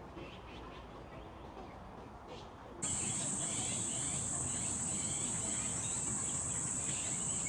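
Insect buzz: one steady, high-pitched, unbroken drone that starts abruptly about three seconds in, over quiet outdoor ambience with small chirps.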